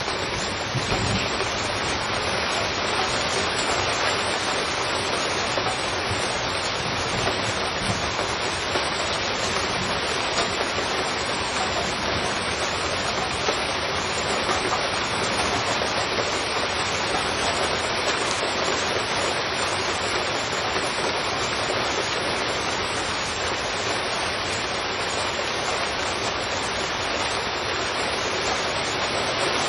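Heavy rain falling on a street, a dense, steady hiss.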